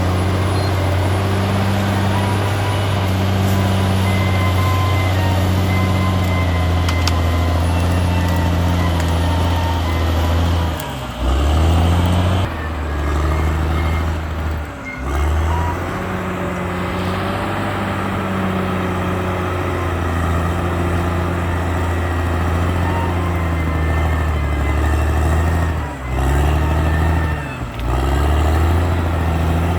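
Caterpillar D6R XL bulldozer's diesel engine running steadily at work, its pitch dipping briefly and recovering about four times.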